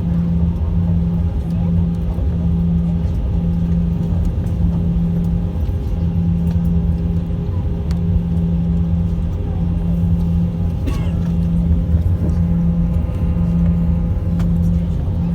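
Airliner cabin noise: the steady rumble and hum of jet engines at low thrust before take-off, with a low hum that pulses a little under once a second.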